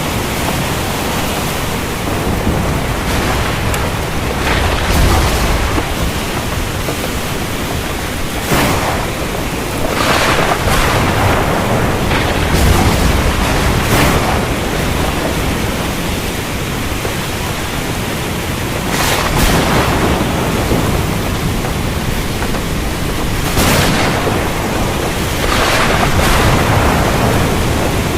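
Heavy rain falling steadily, with thunder rolling in and swelling several times over the steady downpour.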